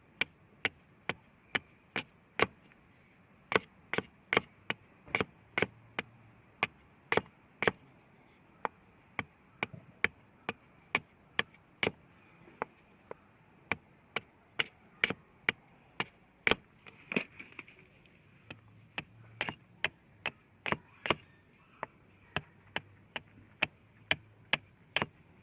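Steady chopping: a long run of sharp knocks, about two a second, with a few brief pauses.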